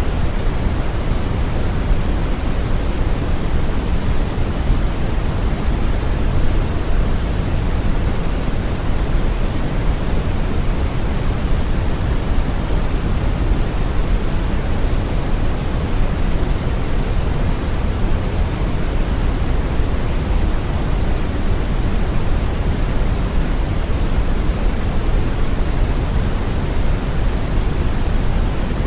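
Steady brown noise: a deep, even rushing hiss, heaviest in the low end and falling off toward the highs, with no change or events.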